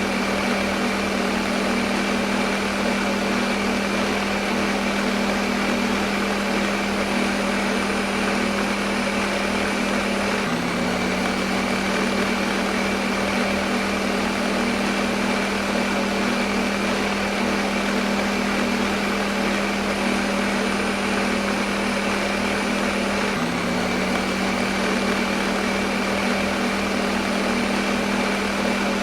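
Electric kitchen blender motor running steadily, a constant hum with a thin high whine over it. The hum dips slightly in pitch twice, about ten and twenty-three seconds in.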